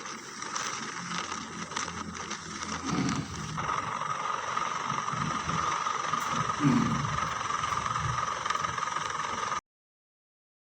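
Helicopter running: a steady turbine whine over rumbling noise, cutting off suddenly near the end.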